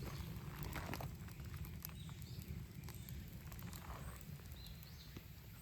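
Wood fire crackling in a newly built stone-and-earth fireplace: scattered faint pops and clicks over a low steady rumble, growing a little quieter toward the end.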